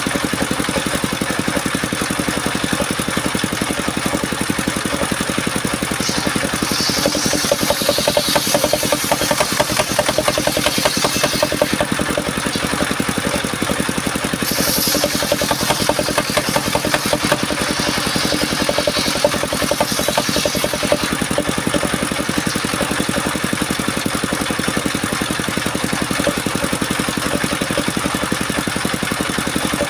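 Engine of a portable circular sawmill running steadily. Twice, for several seconds each time, a high hiss rises over it as the blade cuts through mahogany.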